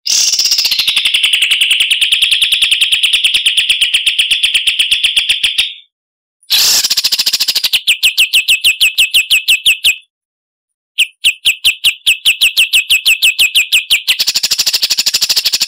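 A small songbird's rapid trill: three long runs of fast, evenly repeated sharp high notes, about a dozen a second, each run cut off suddenly by a short pause. The last run grows brighter and shriller a little before the end.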